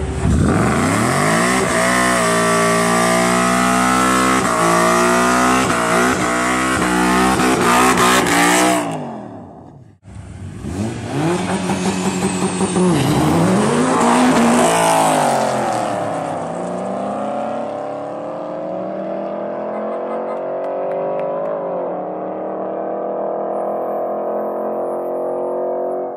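Street-race cars launching and accelerating flat out, the engine note climbing and dropping back at each gear shift, then fading as they pull away. After a cut about ten seconds in, another run: engines revving up through quick shifts, then a long, steadily climbing pull that fades out.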